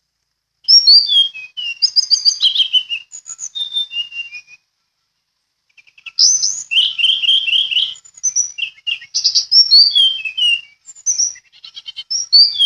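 Teledekan birdsong: loud, quick series of high whistled notes, most falling in pitch, in two bouts separated by a short pause about halfway.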